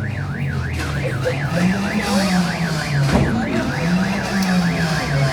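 Electronic car alarm siren warbling, its pitch sweeping up and down about three times a second, over a lower tone that slowly rises and falls. A single sharp bang sounds about three seconds in.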